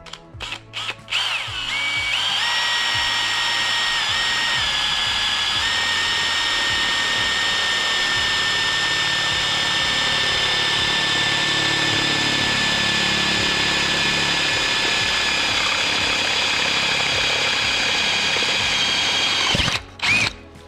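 Electric power tool starting with a few short trigger blips, then spinning up with a rising whine. It holds a steady high-pitched whine with two brief dips in pitch, then winds down near the end.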